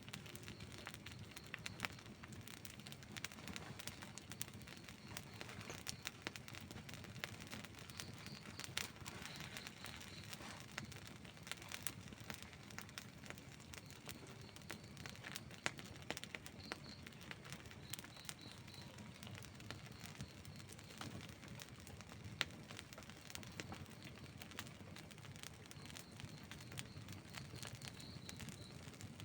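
Outdoor wood campfire crackling, with frequent small sharp pops over a low, steady burning rush.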